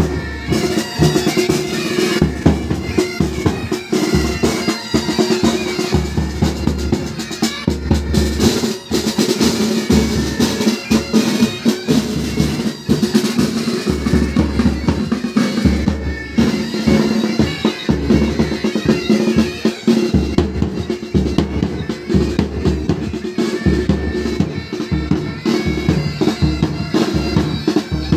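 Pipe band playing: bagpipes sounding a tune over rapid snare drumming with bass drum beats and drum rolls.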